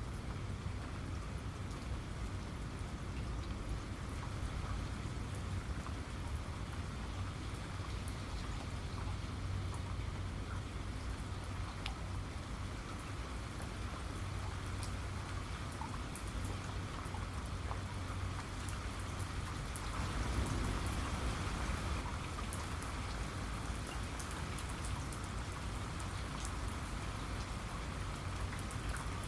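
Steady rain falling, with scattered sharp drop ticks over a continuous hiss and a low rumble underneath, swelling slightly about twenty seconds in.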